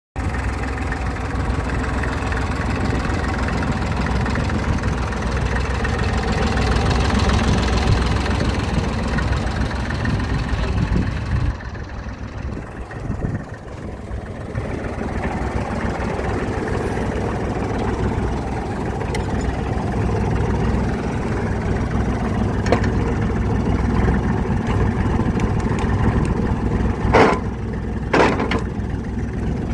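Barreiros R335 tractor's diesel engine running steadily, easing off and quieter for a couple of seconds about twelve seconds in before picking up again, with a few sharp knocks near the end.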